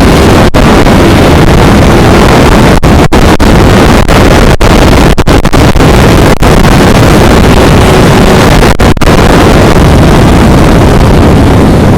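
Loud, distorted rushing noise of wind hitting the microphone, with a motorcycle engine running underneath, the sound cutting out for split seconds again and again.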